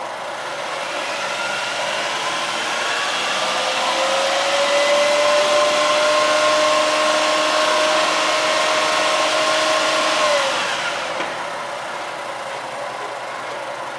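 Honda Life Diva Turbo's 660 cc turbocharged three-cylinder engine revved gradually up from idle with a steady whine, held at raised revs, then dropped back to idle about ten seconds in.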